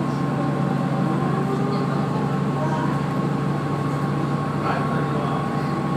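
Steady hum of a Kazekko diesel railcar (a converted KiHa 48) heard from inside the car, its engine running with an even drone and a couple of steady higher tones.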